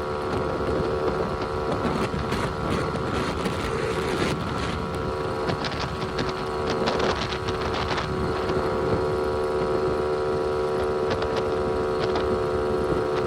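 Honda Navi's small single-cylinder engine running at a steady cruising speed while the bike is ridden, with wind rumble on the microphone.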